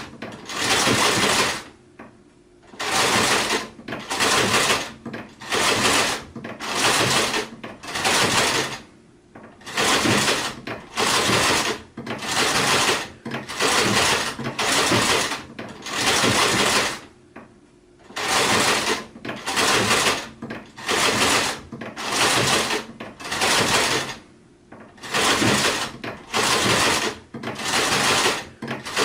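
Sewing machine stitching in short runs, starting and stopping about once a second, with a few slightly longer pauses between runs.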